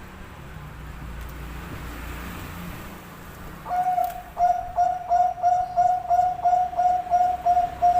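Zebra dove (Bangkok-type perkutut) cooing: about three and a half seconds in, a run of short, evenly spaced coos begins, roughly two to three a second, over a low background rumble.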